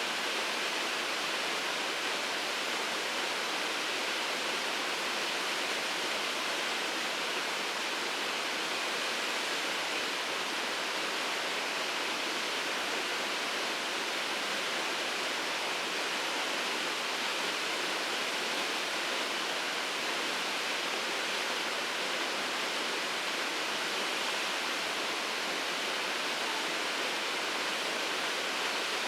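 Shirogane Falls, a waterfall, pouring in a steady, unbroken rush of falling water.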